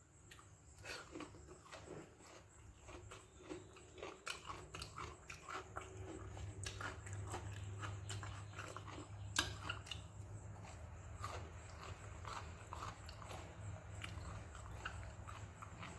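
Close-up eating sounds of a person chewing soaked fermented rice and fried okra: irregular wet mouth smacks and clicks, several a second. A low steady hum runs underneath from about midway.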